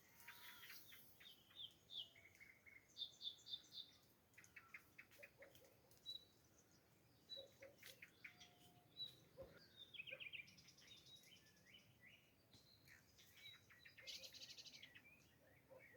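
Faint birdsong: many short high chirps and a few quick trills from small birds, on and off throughout.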